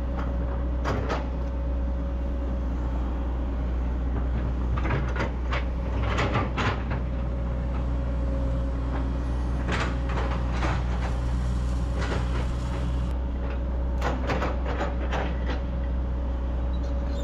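Hydraulic excavator's diesel engine running steadily under working load, with repeated short clunks and knocks from the machine and the boulders it handles, and a steadier strain for a couple of seconds near the middle.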